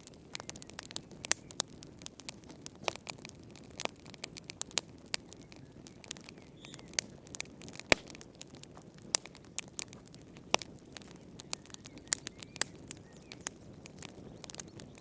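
Wood fire crackling in a fireplace: irregular sharp pops and snaps, several a second, over a soft steady hiss of the flames, with a louder pop about eight seconds in.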